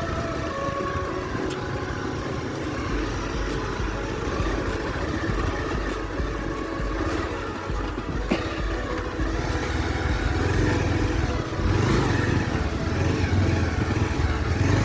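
Motorcycle engine running under way, mixed with wind and road noise and a few sharp ticks. About two-thirds of the way through, the engine grows louder and deeper as it pulls harder.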